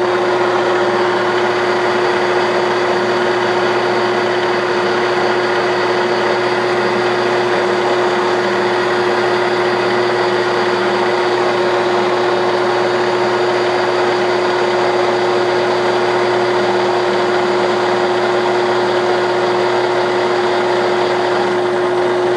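1967/68 Clausing Colchester 1340 engine lathe running steadily under power, with one constant humming tone, while it takes a 25-thousandths turning cut on the workpiece.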